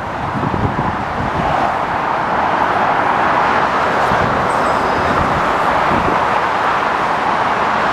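Dense M6 motorway traffic passing below: a continuous rush of tyre and engine noise, growing a little over the first couple of seconds and then holding steady.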